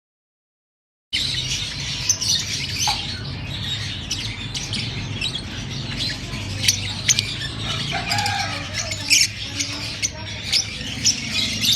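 Fischer's lovebirds chirping and squawking, a busy stream of short, sharp calls over a steady low hum. The sound drops out completely for about a second at the start.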